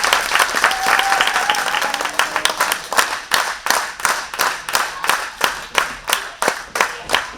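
Audience clapping, first scattered, then from about three seconds in settling into clapping in unison at about three claps a second.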